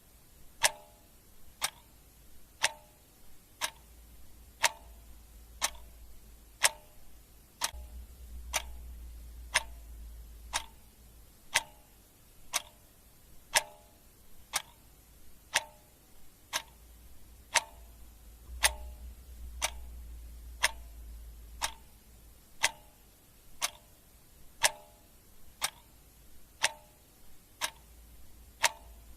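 Clock ticking steadily, about one sharp tick a second, over a faint low hum.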